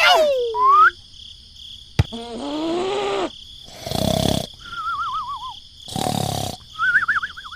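A string of cartoon sound effects. It opens with a falling glide, then a sharp click about two seconds in and a rising-then-falling wail. Two rough, growl-like blasts follow, each followed by a warbling, wobbling whistle.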